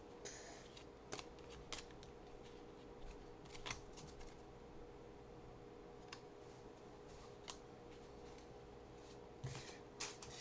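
Faint handling of trading cards: a few scattered soft clicks and rustles over a low steady hum.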